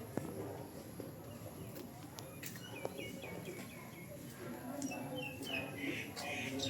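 A bird calling: a quick run of short, evenly repeated chirps about three seconds in, then more chirping later, over a faint murmur of distant voices.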